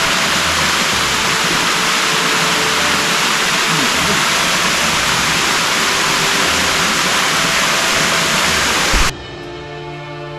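Waterfall roar, a steady, even rush of falling water that cuts off suddenly about nine seconds in, giving way to soft background music.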